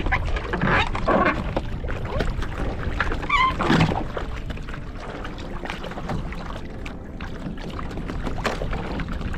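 Water sloshing and slapping around a fishing kayak, with a run of knocks and handling noises on the hull in the first four seconds that then settle into a steadier wash of water and wind.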